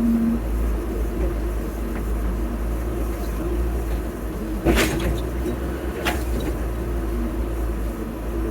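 Heavy construction-machine engine running steadily with a deep rumble, with two sharp knocks about five and six seconds in.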